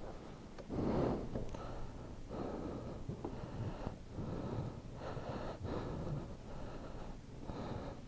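A person breathing heavily close to the microphone, a run of uneven breaths about a second long each.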